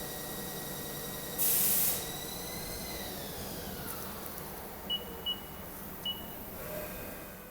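CNC lathe at the end of a cycle: a steady spindle whine, a loud short hiss of spray about a second and a half in, then the whine falling in pitch as the spindle winds down. Three short beeps follow near the end.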